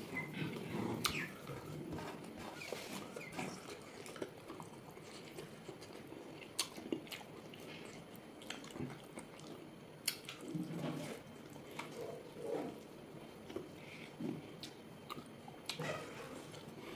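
A person biting and chewing boiled pork, with wet mouth sounds and a few sharp clicks scattered through.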